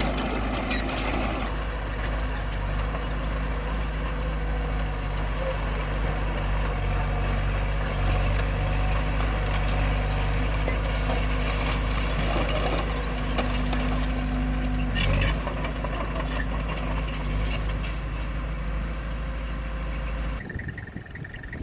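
Heavy earthmoving machine's diesel engine running steadily under load, with metallic clanking near the start and again about fifteen seconds in. The engine sound drops away abruptly about a second before the end.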